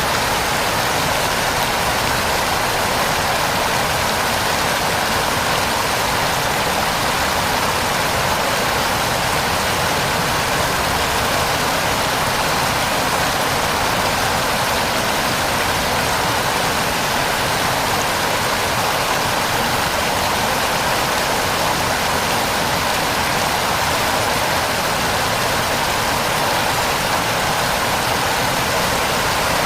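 Heavy rain falling steadily, a constant even hiss of water with no breaks.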